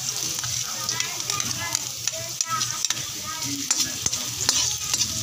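Garlic and chopped onion sizzling in hot oil in a wok as they are sautéed, with a metal spatula scraping and clicking against the pan as it stirs them.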